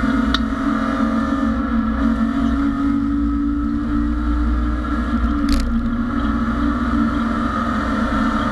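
BMW E30 race car's engine heard from inside the stripped cockpit, running hard at fairly steady revs, with a brief dip and a short click about five and a half seconds in.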